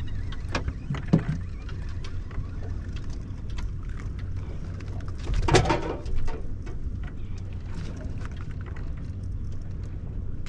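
Steady wind rumble on the microphone with water against a kayak hull, a few short knocks about half a second and a second in, and a louder clattering burst about five and a half seconds in.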